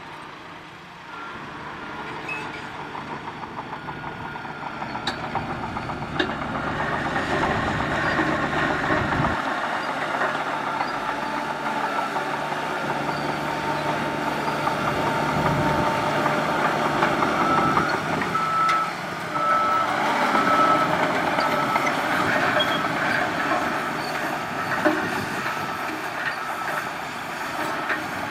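Heavy diesel earthmoving machinery running, with a reversing alarm beeping in a steady on-off pattern through the second half.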